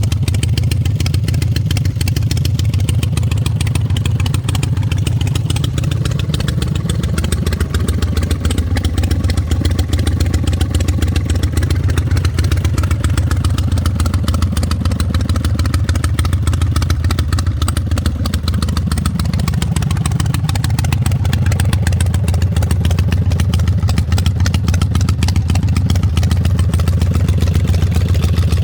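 Custom chopper motorcycle engine idling steadily: a fast, even run of firing pulses with most of the sound low in pitch.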